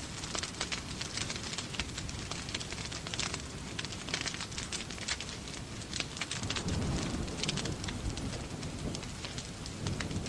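Wood fire crackling with dense, irregular pops over a steady hiss of rain. About six seconds in, a low rumble swells for a few seconds and fades.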